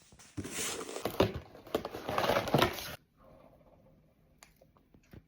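Close-up crunching of crisp food being bitten and chewed, a dense crackle of small clicks that stops about three seconds in.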